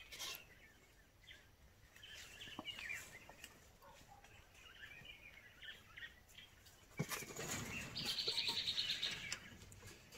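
Faint chirping of small birds. About seven seconds in a louder stretch of noise begins, with a fast buzzy trill for a second or two near the end.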